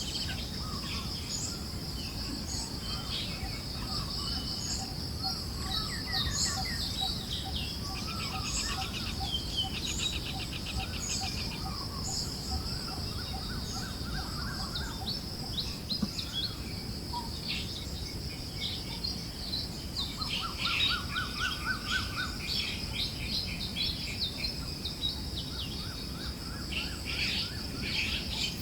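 Several forest birds chirping and trilling over a steady, high insect drone, with a low, even wind noise underneath.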